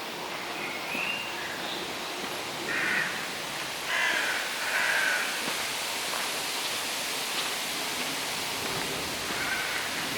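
Crows cawing: a few short harsh calls, the loudest three coming about three to five seconds in, with fainter calls early and near the end, over a steady background hiss.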